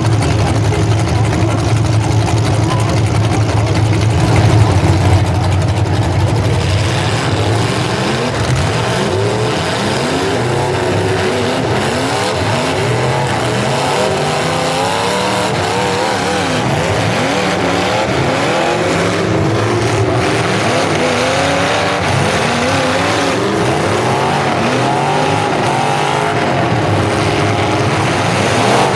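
Several demolition derby cars' engines running hard, with a heavy steady drone at first and then many engines revving up and down over one another.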